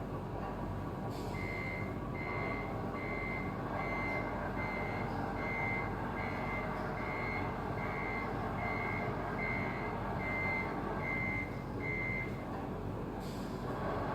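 Reversing beeper of a radio-controlled Scania model truck, beeping steadily about once every 0.8 s for some eleven seconds and then stopping, over a steady running noise.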